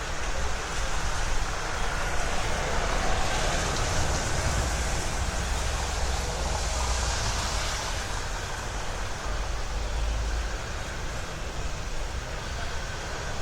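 A Jerusalem Light Rail tram passing on Jaffa Street, a steady low rumble with hiss that swells and fades in the middle.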